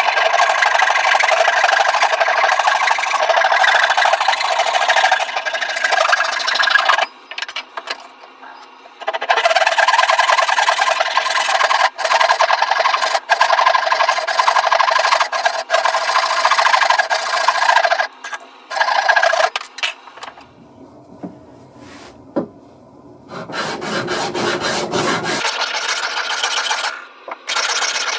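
Wood being abraded by hand: a steady scratchy rubbing in long spells, with short breaks about seven and eighteen seconds in. A quieter pause follows, then a lower, fuller rubbing sound for a couple of seconds before the scratchy rubbing resumes near the end.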